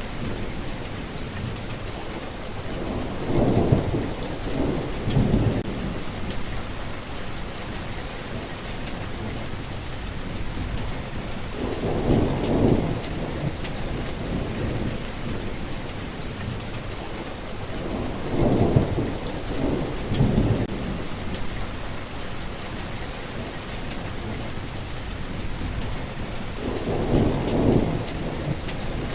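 Thunderstorm: steady heavy rain falling, with four low rolls of thunder rumbling up and fading, each lasting a couple of seconds, spaced roughly every eight seconds.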